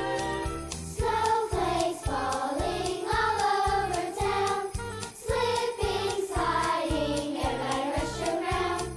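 A school choir singing over an accompaniment with a steady beat.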